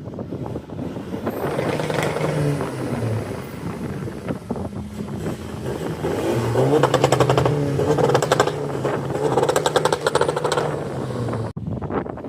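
A car engine running loudly at close range. The exhaust note holds steady, dips briefly about three seconds in, then comes back stronger with a fast rattling pulse from about six and a half seconds, and cuts off suddenly near the end.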